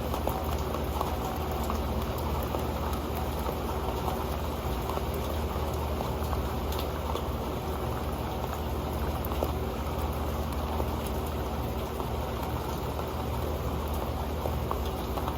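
Rain falling on an old metal pan: a steady rush of rainfall with many small drop ticks landing on the pan, dense and even throughout.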